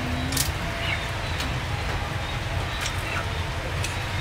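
Outdoor background with a steady low rumble, over which small birds give short falling chirps about once a second, mixed with a few sharp clicks.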